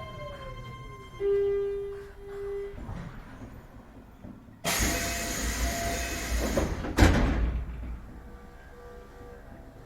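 Keio 7000 series electric train coming to a stop: the traction motor whine falls in pitch and dies away about a second in, and a steady tone follows for about a second and a half. About five seconds in, a sudden rush of air sounds as the doors open, ending in a loud thud about seven seconds in.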